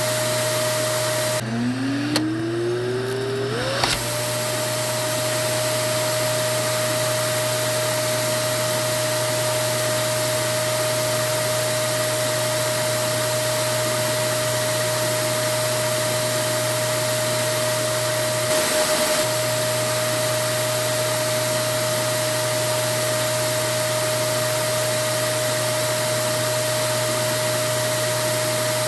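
Vacuum cleaner running steadily: a loud even rush of air with a constant motor whine. About a second and a half in, the whine drops low and the airflow hiss thins, then the whine climbs back up to its steady pitch over about two seconds.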